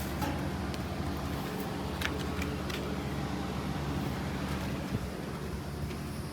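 Steady hum of running air-conditioning condenser units, with a few light clicks over it.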